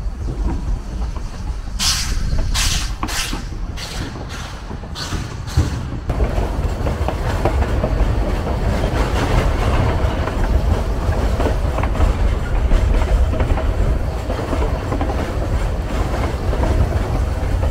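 Narrow-gauge train running along the track. A few short, sharp hissing bursts come in the first seconds, then a steady, loud noise of wheels on rail.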